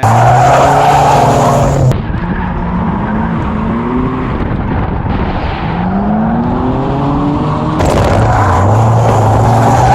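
Drift cars at full throttle on a track, engines revving with rising pitch and tyres squealing in slides. The sound changes abruptly about two seconds in and again near the end, as separate clips are cut together.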